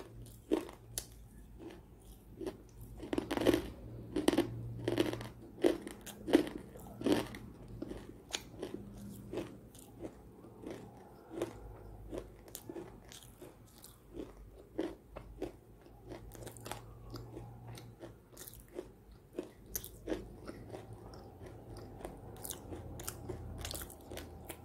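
Close-miked biting and crunching of a dry, brittle homemade cookie made of edible clay (khane wali mitti) in white chalk paste. Crunches come about two a second for the first several seconds, then thin out into quieter, sparser chewing.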